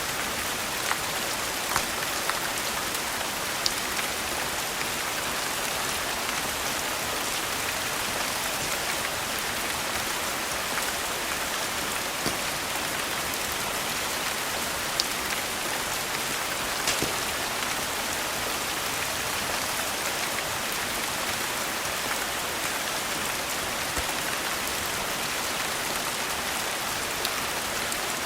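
Steady rain with an even hiss, with a dozen or so sharp ticks scattered through it.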